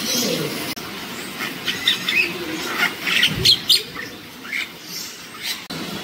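Birds chirping and calling: a scatter of short, high calls, some sweeping down in pitch, over a steady background.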